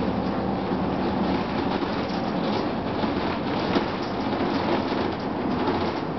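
2004 Gillig Phantom transit bus with its Cummins ISM diesel and HVAC running: a steady mix of engine, blower and road noise, with constant light rattling and clicking from the body and fittings.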